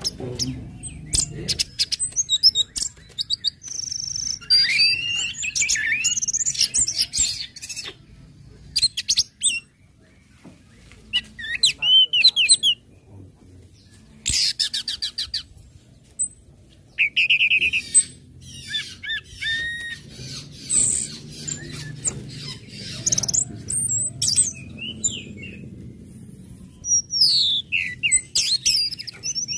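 Orange-headed thrush singing a long, varied song of quick trills, sharp chips and rising and falling whistles, with a few short pauses between bursts.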